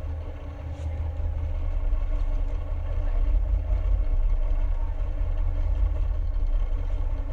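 A dhoni's engine running steadily with a heavy low rumble, which grows louder about two seconds in.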